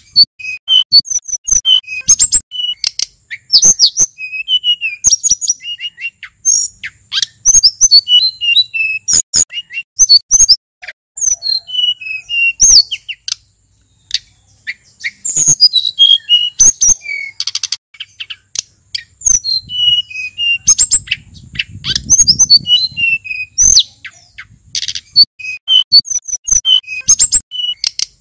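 Male sulingan gunung singing a fast, varied song of high whistles and sharp chirping sweeps, delivered in runs with short pauses.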